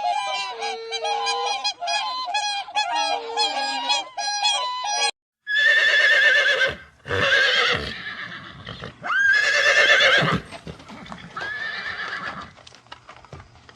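Animal calls from two clips: first a dense run of many short, pitched calls overlapping one another, then, after a brief break, four loud, long calls with a wavering pitch.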